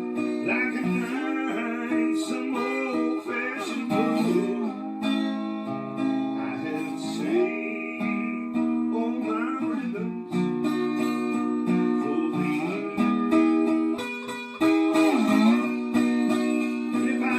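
Acoustic guitar playing a slow song with a man singing along.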